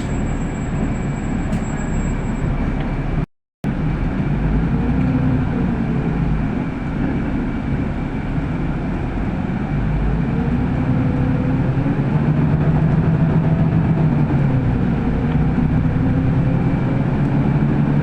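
City bus heard from inside the cabin while under way: steady engine and road noise, with the engine note rising in pitch through the second half as the bus gathers speed. The sound cuts out completely for a moment about three seconds in.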